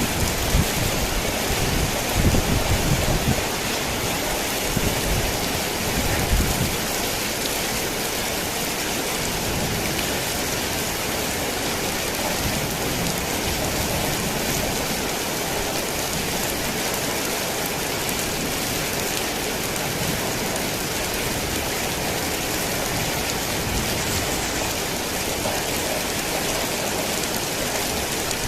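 Heavy rain falling steadily on a tin roof, with thunder rumbling low through roughly the first seven seconds before it fades to rain alone.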